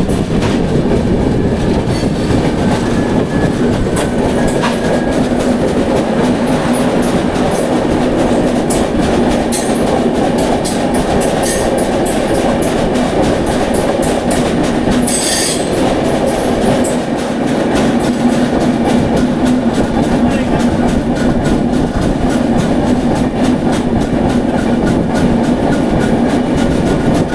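Express passenger train running at speed, heard from on board: a steady rumble of wheels on rail with a hum underneath. Through the middle comes a dense run of sharp clicks as the wheels cross rail joints and points, with a short shrill wheel screech about fifteen seconds in.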